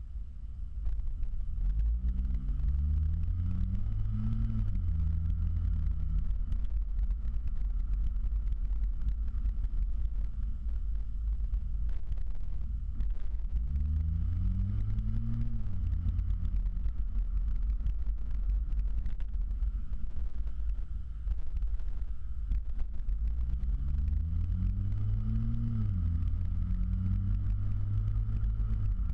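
Ford Fusion Sport's 2.7-litre twin-turbo V6 running through a Magnaflow axle-back exhaust, idling with a low rumble and revved three times, about ten seconds apart; each rev climbs for a couple of seconds and then drops back to idle.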